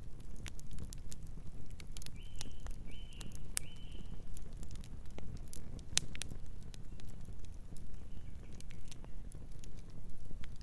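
Wood fire crackling, with frequent sharp pops over a low steady rumble. A distant bird gives three short high calls about two seconds in, and fainter calls near the end.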